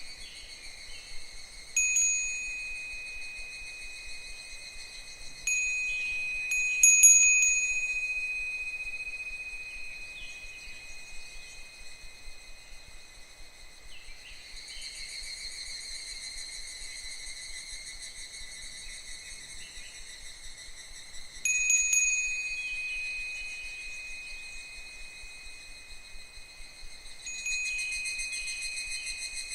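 A Japanese furin wind chime rings several times, each strike a bright high tone that fades out slowly, over a steady, continuous chorus of higurashi (evening cicadas).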